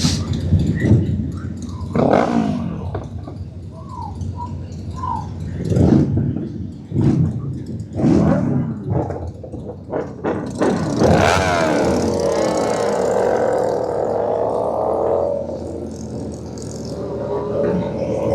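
Motorcycle engines revving hard in repeated bursts, with the pitch climbing and falling. About ten seconds in comes one long, loud rev held for several seconds before it drops back.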